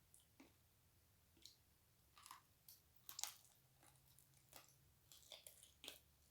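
A person chewing and biting food close to the microphone: scattered wet clicks and small crunches, the sharpest a little over 3 seconds in.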